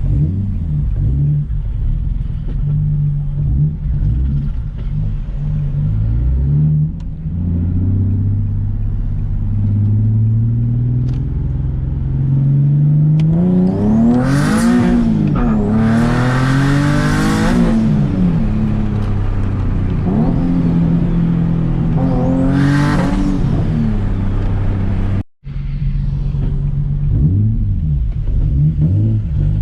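Turbocharged Nissan 370Z's 3.7-litre V6 being driven hard, the revs climbing and dropping several times through the gears. The biggest pulls come in the middle and again near the end, each topped by a loud rushing hiss, and the sound cuts out for an instant near the end.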